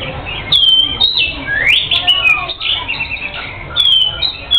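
Oriental magpie-robin (kacer) singing vigorously: loud clear whistled notes that slide down in pitch, mixed with rising sweeps and short chirps.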